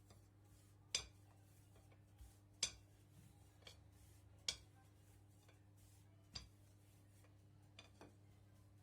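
A few sharp, light clicks and taps of small hard objects being handled, four louder ones spaced about two seconds apart with fainter ones between, over a faint steady hum.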